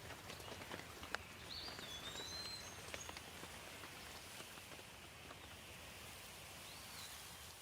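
Light steady rain with scattered drips landing close by, and a bird giving a few short whistled calls, about a second and a half in and again near the end. No thunder.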